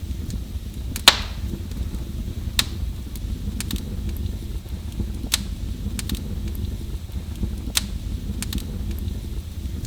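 Wood fire in a fireplace crackling: a steady low rumble with sharp pops at irregular intervals, the loudest about a second in.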